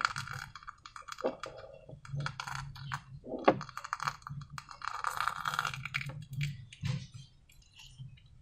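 Slime being squished and pulled by hand, with a run of small sticky clicks and crackles.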